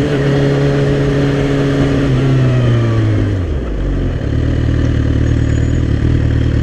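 Suzuki GSX-R sport bike engine winding down, its pitch falling steadily for about three and a half seconds, then settling into a steady idle.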